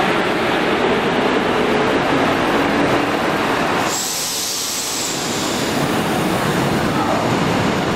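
A German diesel multiple unit rolling past along the platform: steady engine and wheel noise, with a sudden high hiss about four seconds in that lasts a second or two.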